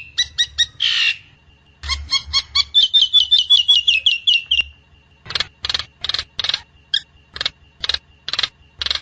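Nias hill myna calling: a fast run of clipped notes and short falling whistles, then a string of loud harsh calls about two a second. A faint steady high tone runs underneath.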